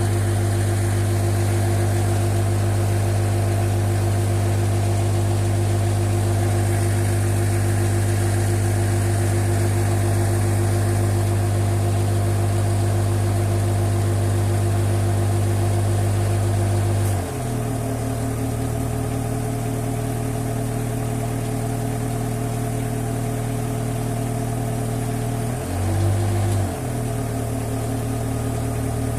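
An engine running at a steady speed, then dropping to a slightly slower, quieter run about two thirds of the way through. Near the end it briefly picks up speed and settles back, twice.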